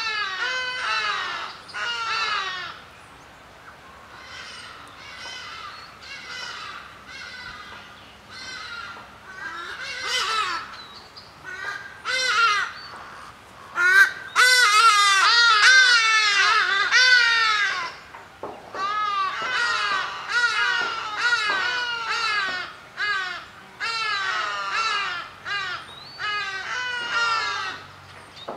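Birds calling loudly over and over, several calls overlapping, with a quieter spell a few seconds in and a busy, dense stretch around the middle.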